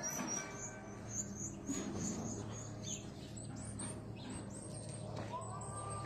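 Small birds chirping: quick series of short high chirps, then a few quick down-sweeping calls, over a steady low hum.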